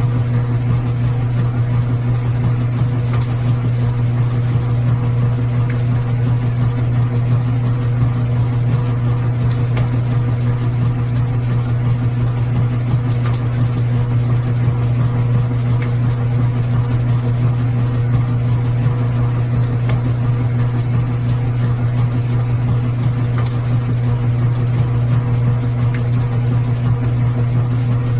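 Washing machine running with a steady, unbroken low hum.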